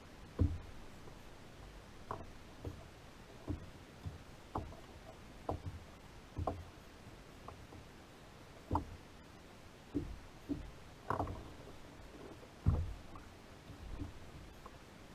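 Irregular soft knocks and thumps, roughly one a second, from hands and gear bumping a kayak while fishing line is handled.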